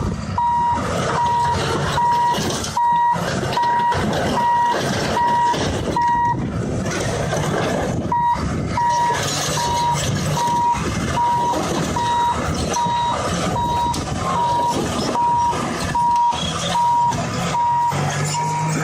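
A heavy vehicle's reversing alarm beeps steadily, about one beep every three-quarters of a second, and pauses briefly near the middle. Engine and mechanical noise from the working machine runs underneath.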